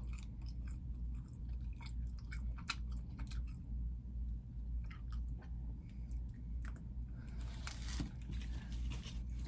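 A person chewing and biting a snack, with small crunchy clicks, over a low steady hum; a brief rustling hiss comes near the end.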